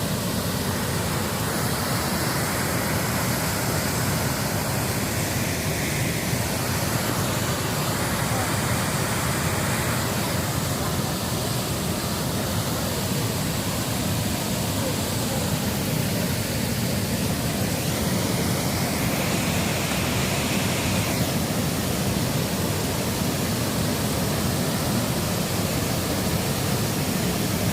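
A steady rushing noise spread evenly across low and high pitches, holding one level throughout.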